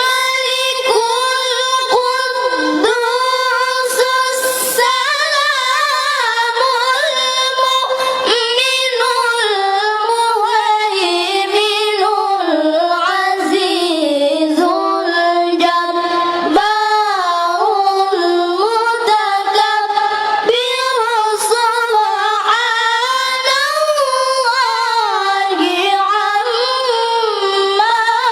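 A young high voice chanting Quran recitation (tilawah) alone, drawing out long ornamented notes that bend and turn in pitch, with short pauses for breath.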